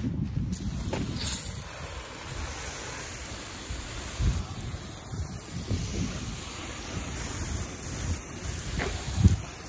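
Garden hose spraying water over a motorcycle, a steady hiss of spray that starts about half a second in. A single thump near the end.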